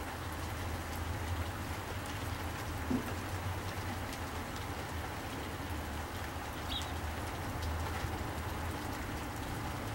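Steady rain falling and pattering, with a single soft knock about three seconds in.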